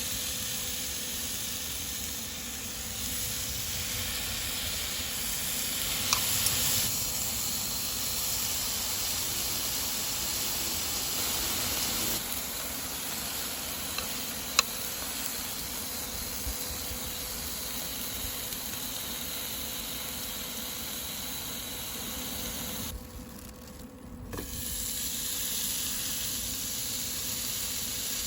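Meat sizzling as it cooks on a hot grill, a steady hiss with a few sharp pops of fat. The sizzle drops away briefly near the end, then carries on.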